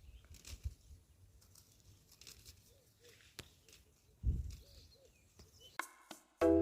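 Faint outdoor rustling with scattered light clicks, a low thump about four seconds in and a few soft bird chirps just before it. Mallet-percussion music like a marimba begins right at the end.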